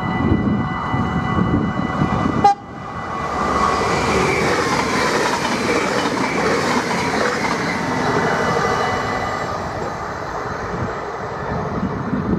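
Level-crossing bells ringing, then a sharp bang about two and a half seconds in as an electric NS double-deck InterCity train reaches the crossing and rushes past at speed for several seconds, the rush fading near the end.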